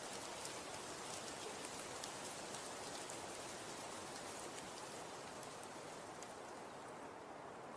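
Falling snow pattering steadily, a soft even hiss with many fine ticks of flakes or grains landing. The high ticking thins out near the end.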